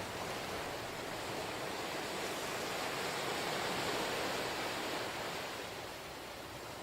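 Ocean waves washing onto the shore, a steady rush that swells about three to four seconds in and then eases off.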